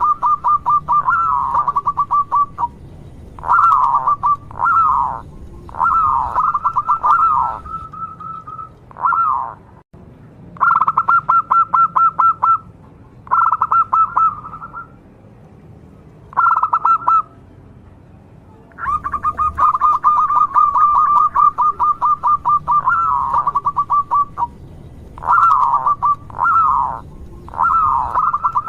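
Zebra dove (perkutut) cooing in repeated phrases of fast, rattling notes held near one pitch. The phrases last one to a few seconds, with short pauses between them.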